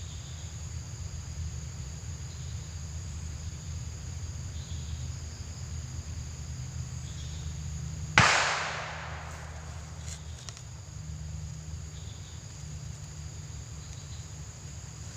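A single sharp, loud bang about eight seconds in, fading away over about a second and a half like a distant blast echoing, over a steady drone of insects and a low hum.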